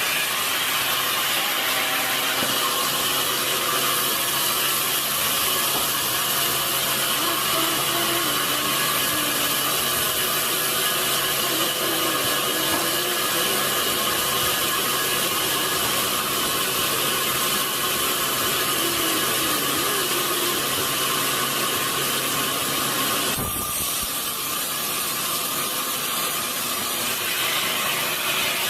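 Sawmill saw and machinery running steadily through a large log, a continuous mechanical noise with a high whine. There is a short low thump about 23 seconds in, after which it runs slightly quieter.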